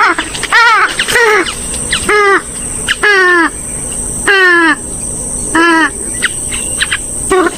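A swamphen or moorhen, a waterbird of the rail family, giving a run of loud calls about a second apart, each curving down in pitch at its end, with a few shorter calls near the end. A steady high insect-like whine runs underneath.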